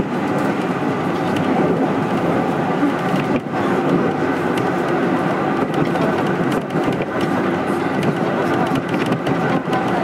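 Kintetsu 1220 series electric train car running at speed between stations, heard from inside: a steady rumble of wheels on the track. There is a brief dip in the noise about three and a half seconds in.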